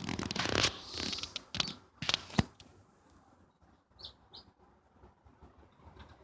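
Bird in an aviary: a flurry of rustling and sharp knocks in the first two and a half seconds, then two short high chirps about four seconds in.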